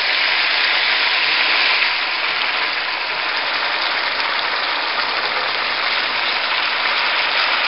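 Braised hairtail pieces sizzling steadily in a wok as the soy and sweet-and-sour sauce reduces and boils off, the pan nearly dry.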